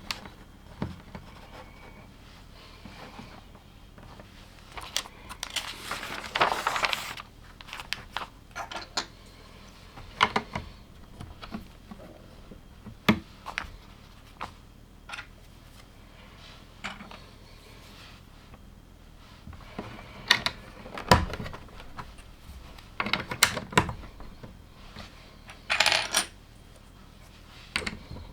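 Small plastic LEGO pieces clicking and clattering as they are handled and pressed together, in scattered sharp ticks. There are two longer rattling spells of loose pieces, about six seconds in and near the end.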